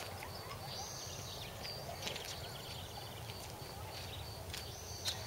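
Outdoor ambience: scattered bird chirps and short calls over a steady low hum, with a faint high note repeating about three times a second.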